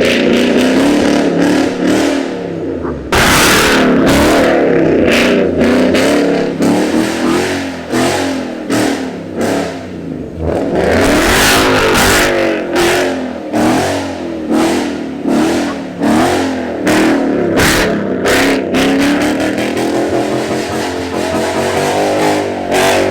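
Loud truck exhausts revving again and again, the engine pitch rising and falling, with two louder bursts of rasping noise about three seconds and about eleven seconds in.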